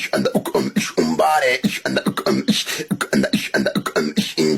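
Vocal backing track: a fast beatboxed rhythm of mouth percussion, with short pitched vocal phrases about a second in and near the end.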